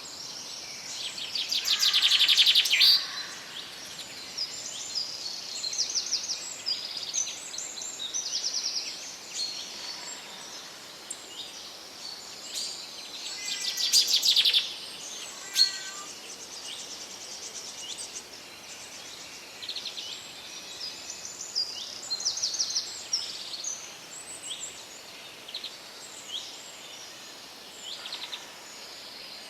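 Several birds singing and chirping over a steady background hiss of forest ambience, with two louder, rapid trilling songs, one about two seconds in and another about thirteen seconds in.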